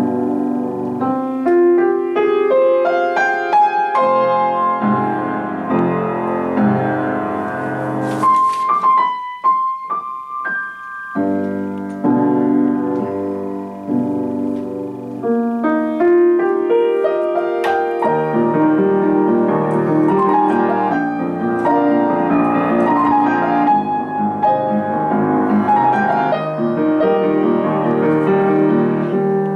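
Piano playing a classical-style composition in chords over a bass line. About eight seconds in, the bass drops out for a few high single notes, then full chords return about three seconds later.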